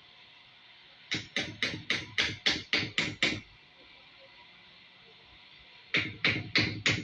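A quick run of about nine sharp knocks, roughly four a second, then after a pause a second run of four, like blows struck while working on the washing machine's parts.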